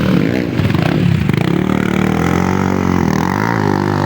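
Several motocross dirt bikes racing, their engines revving up and down, with the pitch rising and falling as they accelerate and shift.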